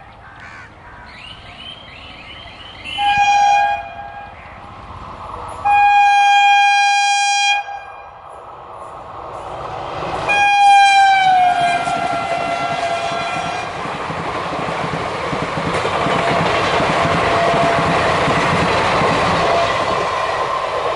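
Indian Railways electric locomotive sounding its horn three times as it approaches at speed: a short blast, a long blast of about two seconds, then a third that drops in pitch as the engine passes. The coaches then run past with a steady rumble and clatter of wheels on the rails.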